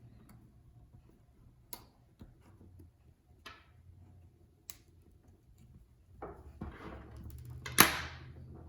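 Small repair tools and parts being handled on a phone: a few sharp, light clicks spaced about a second apart, then a stretch of scraping and rustling with one loud click near the end.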